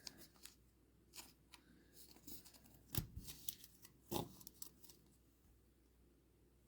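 Faint scattered clicks and taps of trading cards and foil packs being handled on a table, about a dozen over the first five seconds, the loudest about three seconds in.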